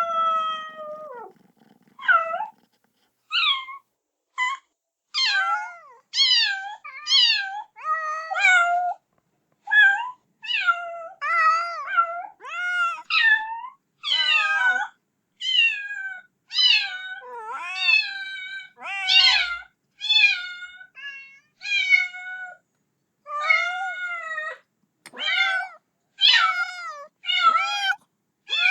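A kitten meowing over and over, calling for its mother: high-pitched cries about one a second, each rising and falling. It opens with the tail of a long call that glides downward.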